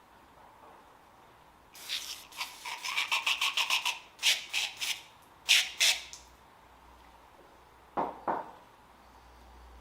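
Hands-on work on a car part, likely cleaning the canister purge valve: a quick run of sharp rubbing or rasping strokes, then several short hissing bursts, then two knocks about eight seconds in.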